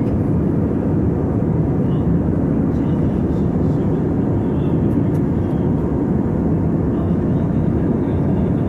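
Steady engine and airflow rumble inside an Airbus A320 cabin in flight, a deep, even drone that does not change.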